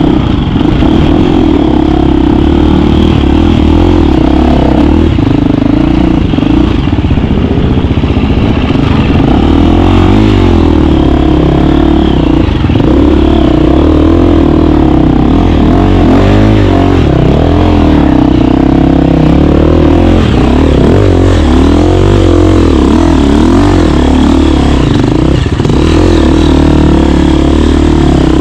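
KTM 350 dirt bike's single-cylinder four-stroke engine running under load, its pitch rising and falling repeatedly as the throttle is worked. Loud throughout.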